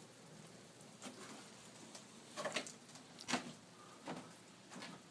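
Faint steady pattering of ice and meltwater dripping in an ice storm. From about halfway in come sharp crunches at a walking pace, like footsteps breaking through ice-crusted snow.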